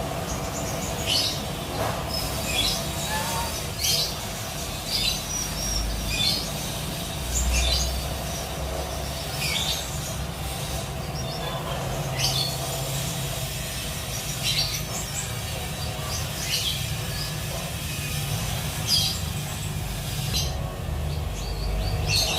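Kapas tembak songbird giving short, sharp chirps, about one a second, over a steady low hum.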